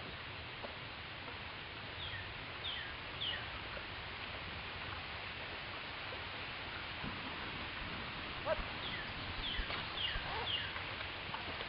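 A small bird calling in short, high, falling chirps, three in quick succession about two seconds in and another run of four near the end, over a steady background hiss. A few faint knocks come in the second half.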